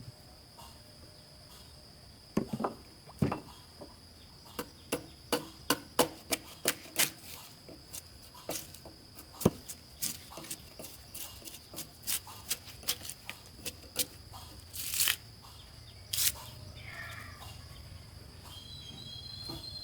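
A series of irregular sharp knocks and taps, a couple of dozen spread over about fourteen seconds, over a steady high-pitched whine.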